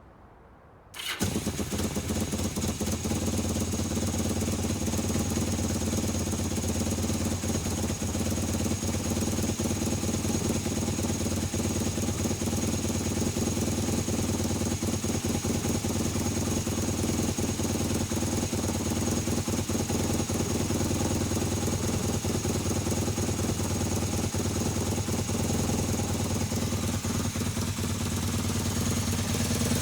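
1978 Kawasaki KZ750 parallel-twin engine catching about a second in on its first cold start after sitting, then idling steadily through mufflers in poor condition; the revs rise slightly near the end.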